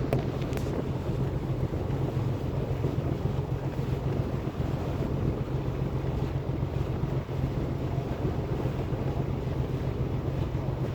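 Ferry boat's engine running with a steady low hum, with wind rushing over the microphone.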